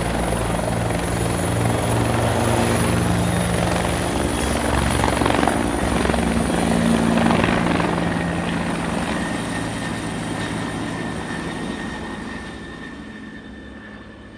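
Steady, loud engine-like mechanical noise with low throbbing tones. It builds to a peak about halfway through, then fades away toward the end.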